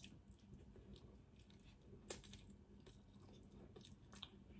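Faint chewing of a full mouthful of chicken curry and rice: scattered soft, wet mouth clicks and smacks, a little stronger about two seconds in and near the end.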